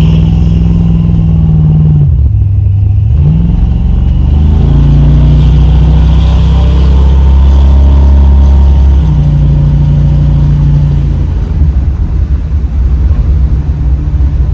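Big-block V8 breathing through dual Flowmaster 44 series 2-1/2" mufflers with a crossover pipe. It is revved and held at raised speed, dips briefly about two seconds in, rises and is held again twice, then drops back toward idle near the end.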